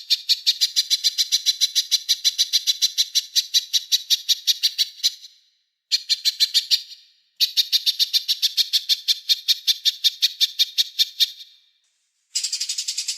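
A small songbird's rapid rattling trill of high-pitched notes, about ten a second, in three runs with short pauses. Near the end a different, denser rattling sound begins.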